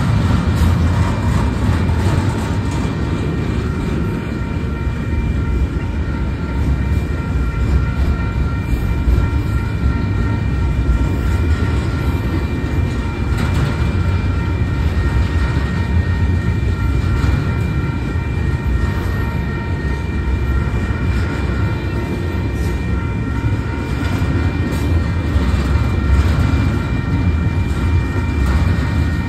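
Freight train rolling past at close range: a steady, loud rumble of wheels on rail, with a thin, steady high-pitched whine over it.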